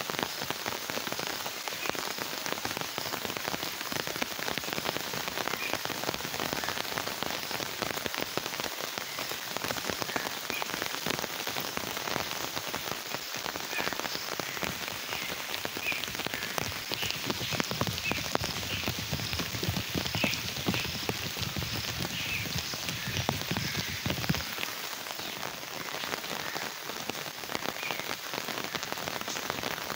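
Rain falling steadily, with many separate drops striking close by. Through the middle stretch, short high calls of a small animal repeat, and for several seconds a low rumble joins in before stopping abruptly.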